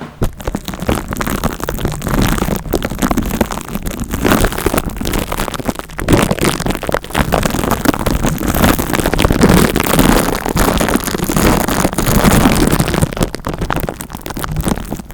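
Dense, close-up crackling and rustling made by something being rubbed or scratched right against the microphone, in a continuous stream of tiny clicks with a rising and falling level.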